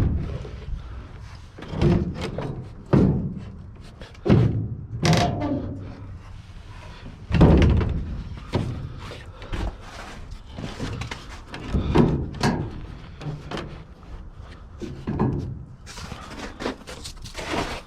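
Homemade truck tailgate being forced into the truck bed: a series of irregular bangs and thuds, one every second or few seconds, the loudest a little past the middle. It is jamming instead of sliding in smoothly.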